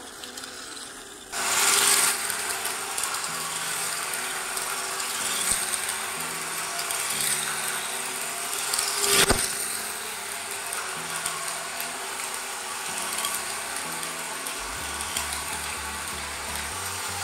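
Small geared DC motors of a homemade four-motor toy car running, a steady whirring gear noise that starts suddenly about a second in, with a sharp knock about nine seconds in. Background music plays underneath.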